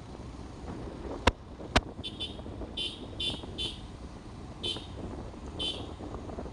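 Steady motorcycle running and road noise while riding, with two sharp knocks between one and two seconds in. Then come short high-pitched beeps, repeated at irregular gaps of about half a second to a second.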